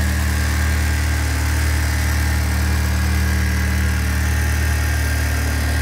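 Audi A3 1.8T turbocharged four-cylinder engine idling steadily. The strange noise the owner is chasing does not appear with the engine running.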